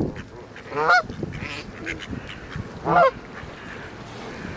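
Geese honking close by: two loud, short honks, about a second in and near three seconds in, with quieter calls between.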